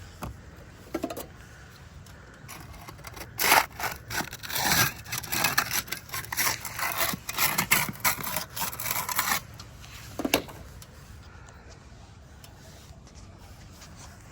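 A GAF Timberline HDZ laminated asphalt shingle being worked up off the roof for a brittleness test: a few seconds of irregular scraping and crackling, with a single knock before and another after. The shingle proves extremely brittle, its laminates coming apart as soon as it is touched.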